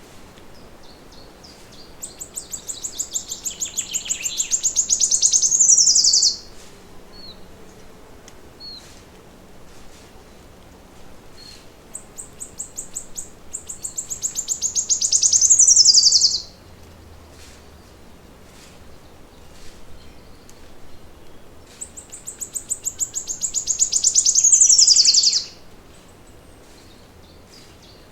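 A songbird singing the same song three times, about ten seconds apart. Each song is a high trill of rapidly repeated notes that speeds up and grows louder over about four seconds, then ends in a quick falling flourish. A faint steady hiss of forest and water ambience runs underneath.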